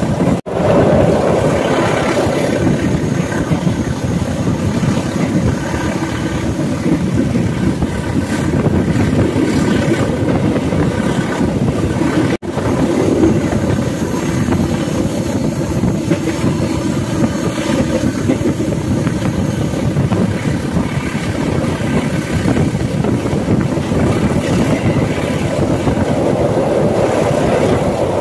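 Blambangan Ekspres passenger train running, heard from inside the carriage as a steady noise of wheels and carriage in motion, with two split-second dropouts, one about half a second in and one near the middle.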